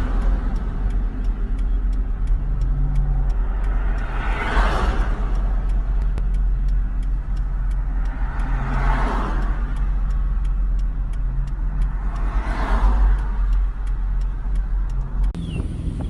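Motor vehicle engine running with a deep, steady rumble, with a swelling whoosh about every four seconds.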